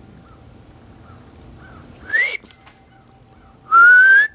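A person whistling two rising notes, a short upward glide about two seconds in and a longer, louder rising whistle near the end, with breath hiss around each.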